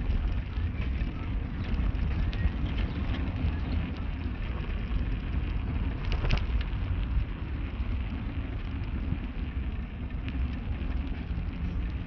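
A car on the move: steady low road and tyre rumble, with a few light knocks, the clearest about six seconds in.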